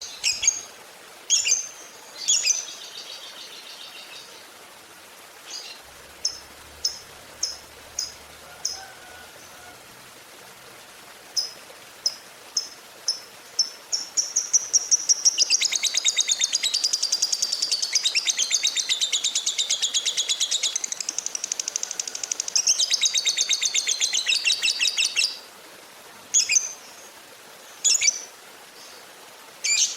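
Lovebird calling: sharp, high chirps about a second apart, then about fourteen seconds in a long, fast rattling chatter of rapid chirps that runs for some ten seconds before the single chirps return.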